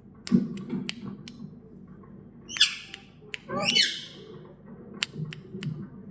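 Parrot giving two loud, harsh squawks, about two and a half seconds in and again about a second later, among several sharp clicks.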